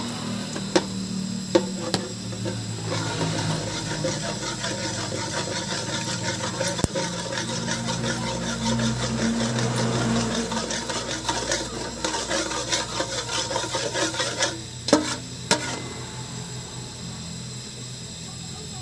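Food sizzling and crackling in hot oil in a pan while a spatula stirs and scrapes it, with a few sharp knocks of the spatula against the pan near the start and twice near the end.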